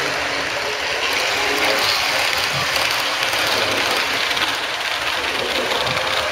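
Model trains running on a layout, a steady whir and rattle of small motors and wheels on the track.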